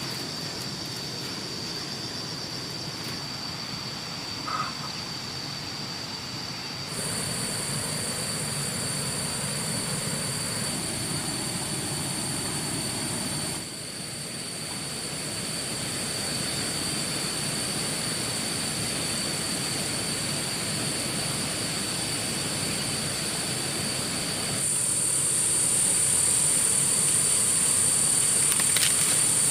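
Steady, high-pitched insect chirring, at two shrill pitches, over an outdoor background hiss. It steps louder abruptly about a quarter of the way in and again near the end.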